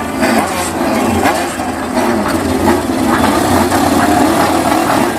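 Old motorcycle engine running steadily with a loud, rough exhaust note.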